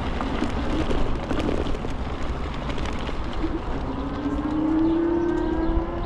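Wind buffeting the microphone and road rumble while riding an Ikingi S6 Pro electric scooter, with small knocks from the road surface. About four seconds in, a whine rises slowly in pitch for a couple of seconds.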